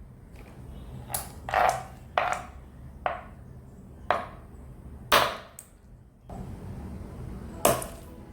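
A series of sharp cracks and snaps, about seven at irregular intervals, as a crunchy object is crushed, over a low steady hum.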